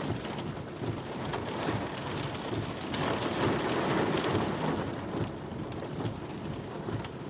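Heavy monsoon rain pattering steadily, with a low rumble of thunder swelling about three seconds in and fading a couple of seconds later.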